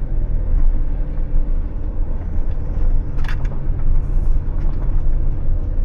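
Motorhome driving slowly with a steady low engine and road rumble, with a short sharper noise about three seconds in.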